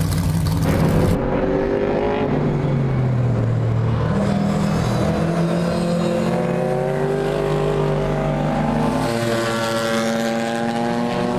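Historic racing car engines running hard on track, their note rising and falling as the cars accelerate and pass. The sound changes abruptly about a second in.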